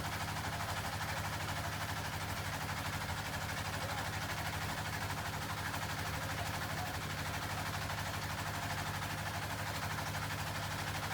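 Boat engine running steadily underway, an even low drone with a constant noisy hiss over it.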